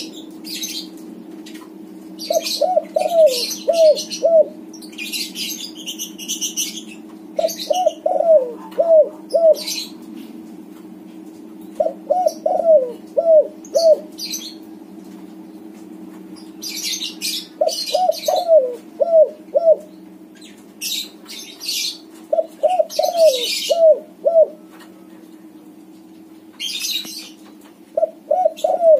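Spotted dove (tekukur) cooing in repeated phrases of five or six short falling notes, a new phrase about every five seconds. Clusters of high, sharp chirps fall between the phrases.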